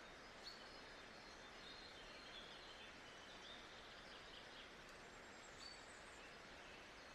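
Faint nature ambience: a steady hiss with birds chirping over it, a few short chirps and a brief run of calls in the middle.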